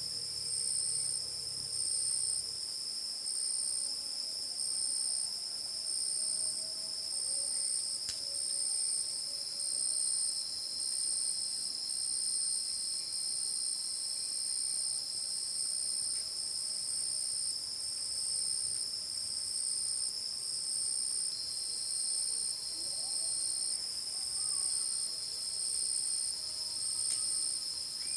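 Night insect chorus, crickets trilling: a steady high-pitched drone with a higher, evenly pulsing trill over it.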